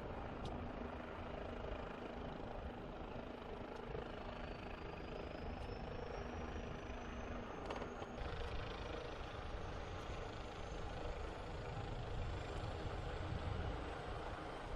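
Bell OH-58 Kiowa helicopter running: a steady rush of rotor and engine noise, with a thin high whine that slowly rises in pitch from about four seconds in.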